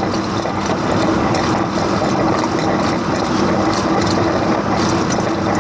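A motor running steadily, with a constant rushing noise and an even hum, while the clogged condensate drain line is being cleared.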